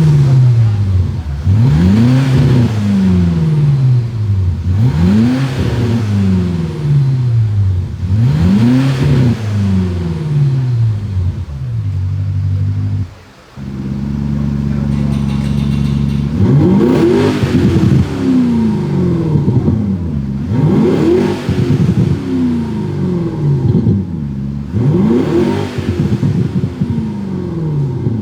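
Electronic exhaust speakers playing a synthesized sports-car exhaust note on a diesel Mercedes CLA 200: repeated rev blips, each rising and falling in pitch, every couple of seconds. About thirteen seconds in it cuts out for a moment, holds a steady idle for a few seconds, then goes back to revving.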